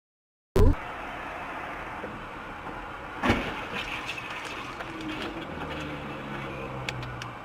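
Vehicle collision heard from inside a car: steady engine and road noise with a loud sudden crash about three seconds in, as another car plows into it. A sharp thump marks the very start.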